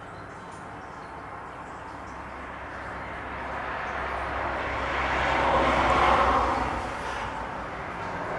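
A vehicle passing by: a broad rushing noise that builds over a few seconds, peaks about six seconds in, then drops away.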